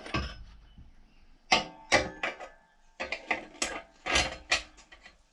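Clinks and taps of C6 transmission clutch plates, friction discs and steels, being handled and set into the clutch drum: a run of short metallic knocks, some with a brief ring.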